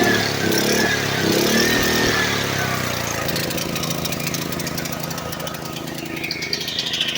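Small single-cylinder engine of a portable generator running. Its pitch wavers up and down for the first few seconds, then settles into a steadier run.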